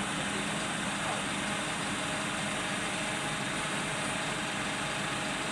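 Diesel engine of an Isuzu crane truck running steadily at idle, an even hum with no change in speed.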